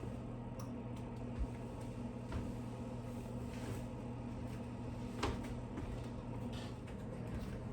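Steady low electrical hum of a running kitchen appliance, with scattered clicks and knocks of kitchen items being handled. The sharpest click comes about five seconds in.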